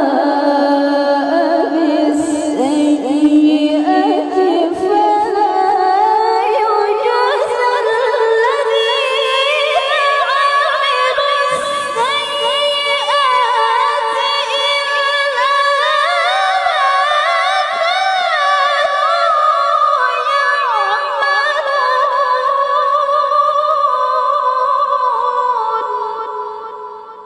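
A woman's high, clear voice in melodic Quran recitation (tilawah), drawing out one long melismatic phrase with wavering ornaments that climbs higher midway. It trails off near the end.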